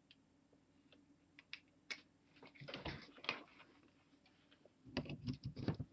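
Faint handling noises as a power cable's plug is pushed into a wall outlet: a few small clicks, then soft rustling and knocking.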